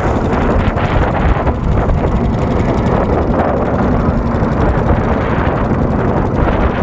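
Strong sea wind buffeting the microphone: a loud, steady rumbling rush with no break.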